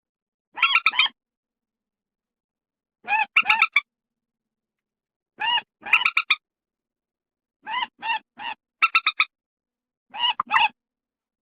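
Bird-lure recording of paddy-field rail calls: about six short bursts of quick repeated notes, spaced roughly every two seconds, with dead silence between them.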